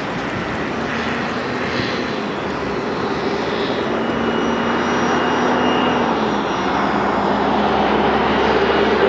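OS .46 two-stroke glow engine of an RC model plane running with its propeller buzzing, gradually growing louder.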